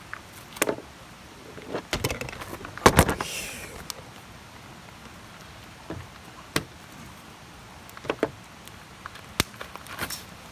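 Wood campfire crackling, with scattered sharp pops and a denser run of pops about two to three seconds in, the loudest followed by a brief hiss.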